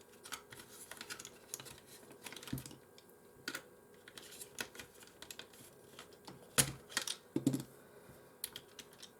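Irregular small clicks and taps of plastic parts being handled as the rollers are unclipped and taken out of a PS4 disc drive. The loudest knocks come about six and a half and seven and a half seconds in.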